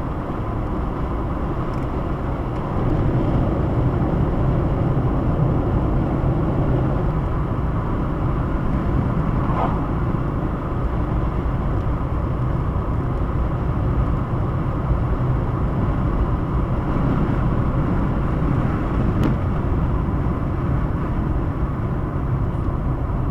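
Steady road and engine noise of a moving car heard from inside the cabin, getting a little louder about three seconds in.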